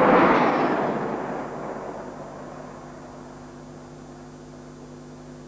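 A British Rail High Speed Train (InterCity 125) passing at speed, its rushing noise fading away over about two seconds as it recedes, leaving a steady low hum from the old film soundtrack.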